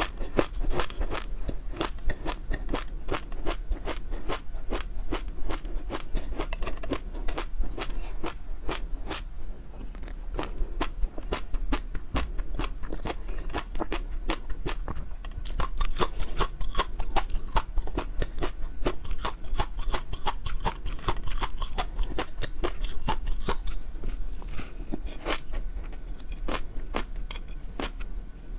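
Close-miked eating sounds: a continuous, rapid run of sharp chewing and crunching clicks as food is bitten and chewed.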